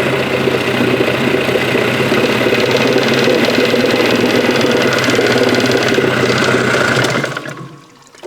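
1986 Mercury two-stroke outboard motor idling steadily, then slowing and dying out near the end. The stall comes just after the idle screw was opened a little more, and the owner says it shouldn't die like that; he believes it is a fuel delivery problem.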